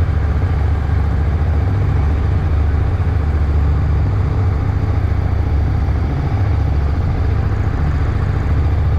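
KTM 1290 Super Duke R motorcycle's V-twin engine running steadily, without revving up or down.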